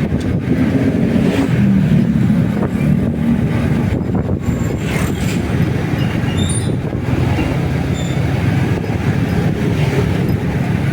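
Motorcycle on the move: the engine runs steadily under wind rushing on the microphone.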